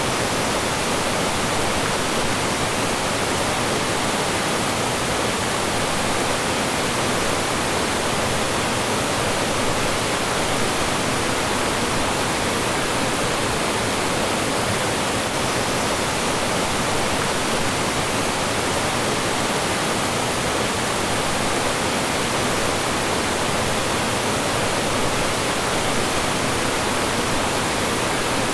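Mountain stream rushing and falling over rocks: a steady, even rush of water that doesn't change.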